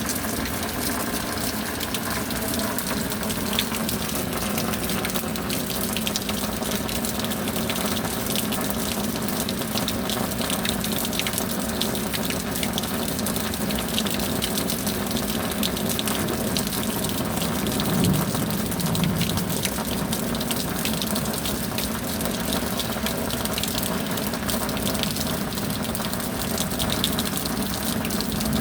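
Steady rain: a dense, even hiss of falling water with many close drop splashes, swelling briefly a little over halfway through.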